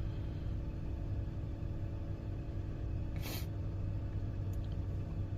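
1998 Mazda MPV's engine idling steadily shortly after a cold start, heard from inside the cabin as a low hum. A brief hissing rustle comes about three seconds in.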